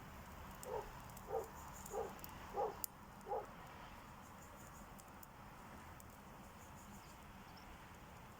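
An animal calling five times in a row, about two-thirds of a second apart, with a sharp click among the calls.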